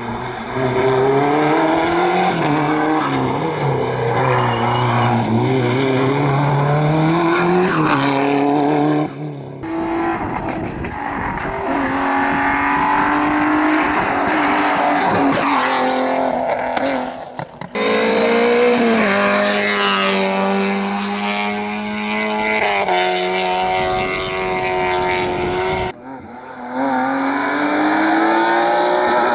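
Rally car engines run hard, the pitch climbing under acceleration and dropping back again and again through gear changes and lifts. Three times the sound changes abruptly to another car's run.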